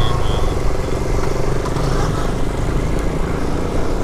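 Lifan KP motorcycle engine running steadily at cruising speed while being ridden.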